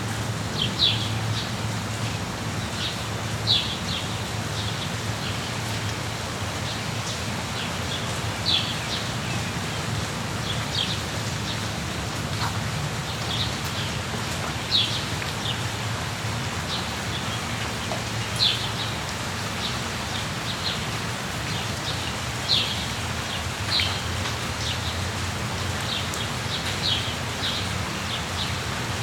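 Steady rainfall with small birds chirping, short high chirps coming one at a time every second or few.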